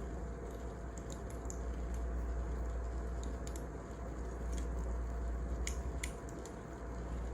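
Wood fire burning, with a steady low rumble and irregular sharp crackles and pops of the burning logs.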